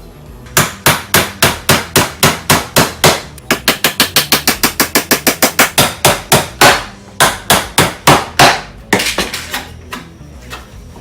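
Hammer striking repeatedly in quick runs of about four to five blows a second, with two short breaks, the last few blows lighter, as when driving nails into a wooden birdhouse.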